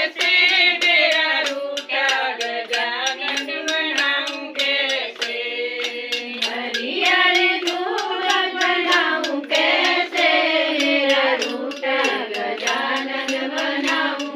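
A group of women singing a Sanskrit devotional hymn to Shiva together. Sharp hand claps keep a steady beat, about three a second.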